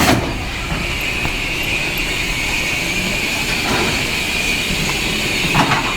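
A train running, a steady rail noise with a sharp click at the start.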